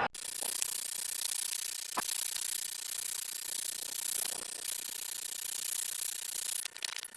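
Propane torch flame hissing steadily as it chars wood, with faint crackles from the burning surface and a brief break in the hiss near the end.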